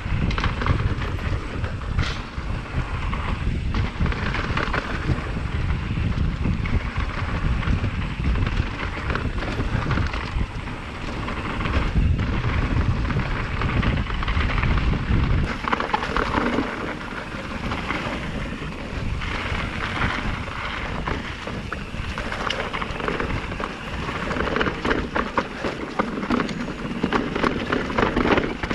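Mountain bike, a Commencal META Trail 29, rolling fast down a rocky trail: tyres rumbling over rock, with the chain and frame rattling continuously. A heavy low rumble, likely wind on the camera microphone, fills the first half and eases a little past halfway.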